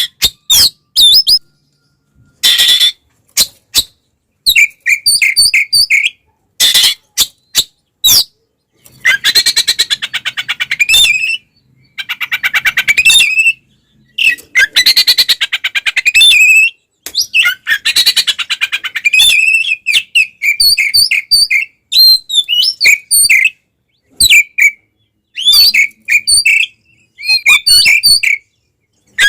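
Oriental magpie-robin singing loudly in short bursts of whistles and harsh squawky notes, split by sudden silent gaps, with three longer stretches of fast chattering trills. It is the aggressive 'fighting' song kept as a lure to provoke other magpie-robins.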